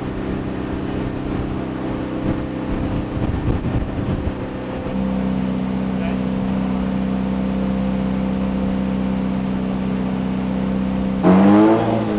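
Turbocharged SR20DET four-cylinder in a drift car running on a dyno: an uneven running note that settles about five seconds in to a steady held engine speed, then revs up sharply and loudly near the end.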